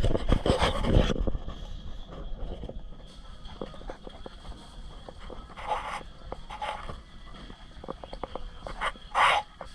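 A dog panting close to the microphone, with louder rustling bursts in the first second and again shortly before the end.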